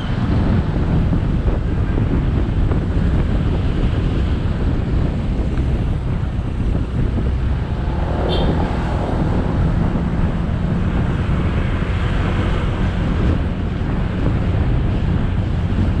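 Heavy wind buffeting on an action camera's microphone over a riding motorcycle's engine and road noise, steady throughout. About halfway through a short high-pitched tone cuts in briefly.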